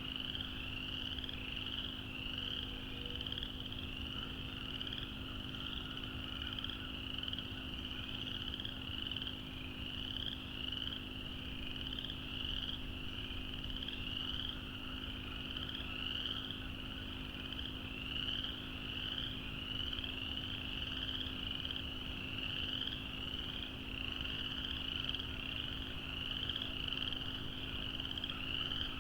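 A dense chorus of frogs calling without a break, a steady stream of high, short rising peeps.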